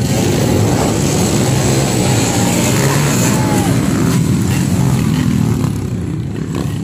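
Motocross dirt-bike engines running loud, easing off a little near the end.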